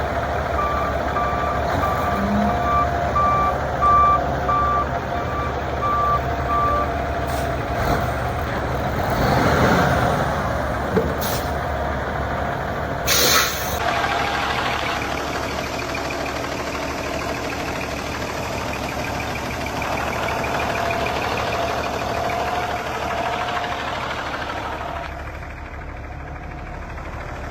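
Diesel engine of a 2008 Kenworth T800 truck tractor running steadily, with a backup alarm beeping at an even pace for the first seven seconds or so and a short sharp hiss of air about thirteen seconds in.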